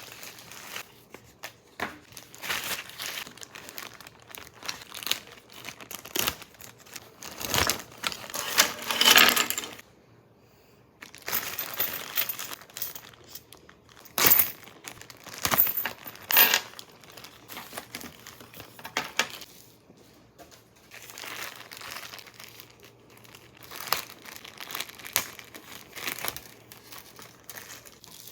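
Packaging crinkling and rustling in irregular bursts as a kit's parts are handled and unwrapped. The loudest stretch comes about eight to nine seconds in, with a short pause just after and a few sharp clicks a few seconds later.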